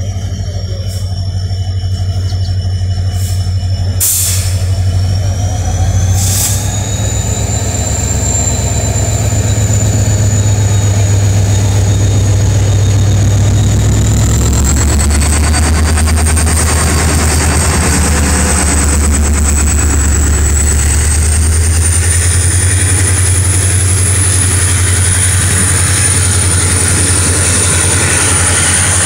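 Passenger train passing close by, locomotive and then coaches rolling over the rails. It is a continuous low rumble with a high whine that slowly rises in pitch, growing louder over the first ten seconds or so and then holding steady.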